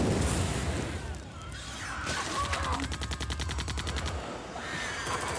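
Rapid automatic gunfire, about ten shots a second for roughly two seconds, starting about two seconds in, over a low rumble.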